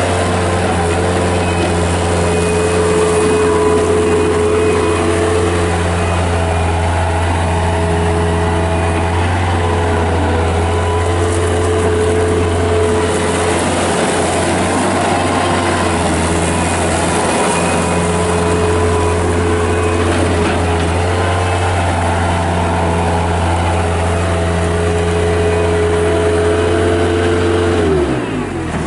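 Kubota diesel engine of a Bobcat 7753 skid steer loader running steadily at working speed. Near the end the engine speed drops sharply and then climbs back up.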